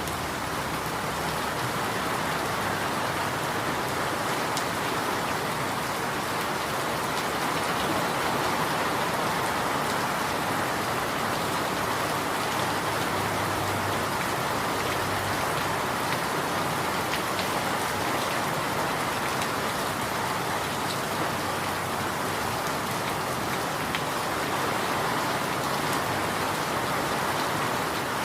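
Steady rain falling: an even, continuous hiss with scattered sharper drop ticks.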